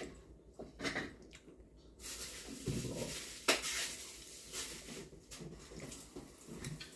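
Kitchen clatter: dishes and utensils knocking, with a few sharp clicks. A steady hiss starts about two seconds in.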